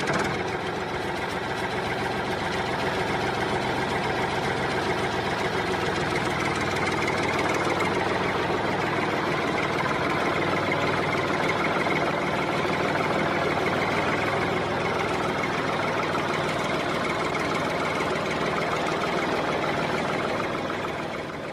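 A motor running steadily, a dense even mechanical noise with no change in speed.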